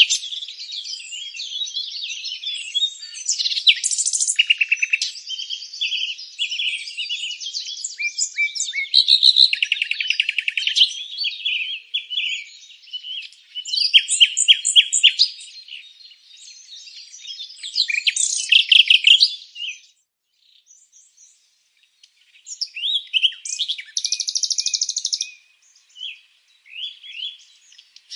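Several birds chirping and singing over one another, with quick trills, short whistled notes and buzzy phrases. The song falls nearly silent for a few seconds about two-thirds of the way through, then picks up again.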